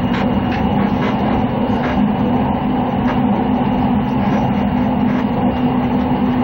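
Train running at speed, heard from inside the carriage: a steady drone with a strong low hum and faint, irregular clicks from the wheels over the rails.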